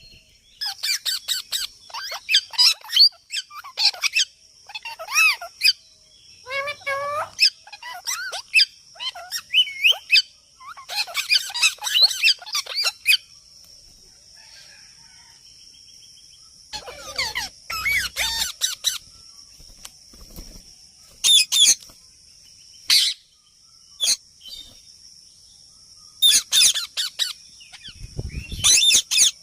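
Parrot calling: runs of shrill chirps and squawks that glide up and down in pitch, coming in bursts with short pauses between them.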